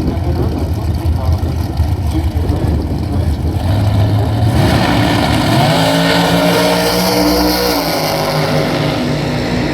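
Drag car's engine rumbling at low revs, then launching and accelerating hard, its pitch climbing for a few seconds before dropping at an upshift about eight seconds in.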